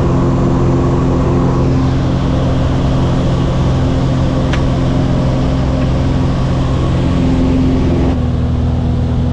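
Jump plane's piston engine and propeller droning steadily at a constant pitch, with one short click about four and a half seconds in.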